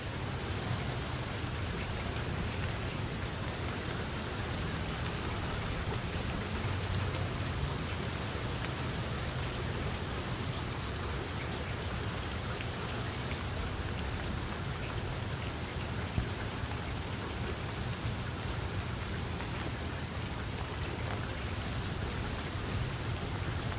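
Steady rain falling, many small drop ticks over an even hiss, with a steady low rumble underneath.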